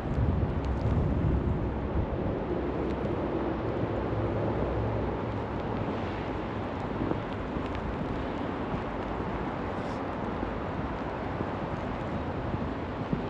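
Steady wind noise with a low rumble, louder in the first two seconds.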